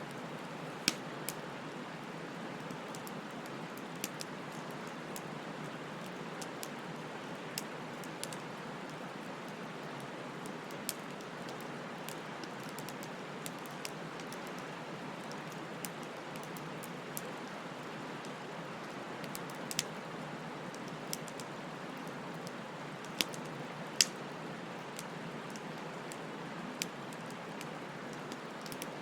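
Bonfire burning with a steady soft hiss and irregular sharp crackles and pops of burning wood, a few seconds apart.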